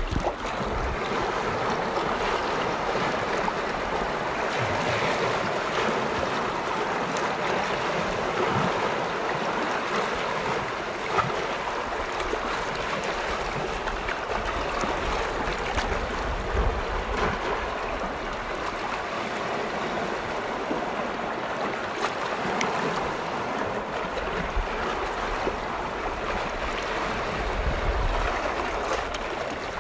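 Small waves washing continuously on a lakeshore, an even rushing wash with no break, with low rumbles of wind on the microphone now and then.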